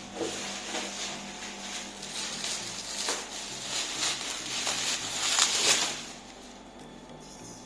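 Rustling and scraping of cardboard and plastic-wrap packaging being handled, in irregular strokes that die down about six seconds in.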